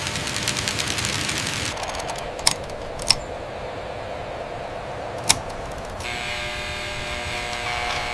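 Mechanical work noise: a fast rattling run of clicks, then three sharp single clicks a second or two apart, then a steady machine whir with a humming tone from about six seconds in.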